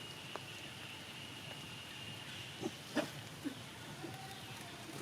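Monkeys giving three short calls close together about three seconds in, the middle one loudest, over a steady high-pitched tone that fades out soon after.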